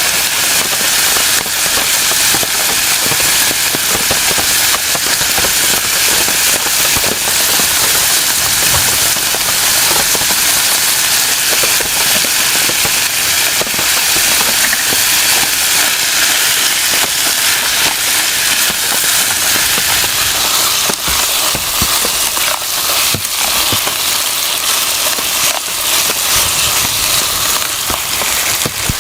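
Heavy rain: a loud, steady hiss thick with sharp, crackling drop hits.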